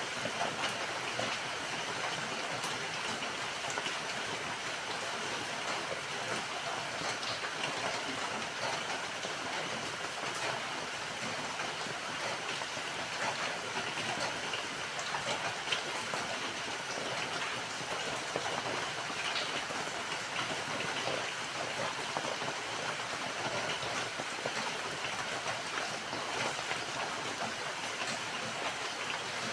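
Steady rain falling, an even hiss with many small drop ticks, unchanging throughout.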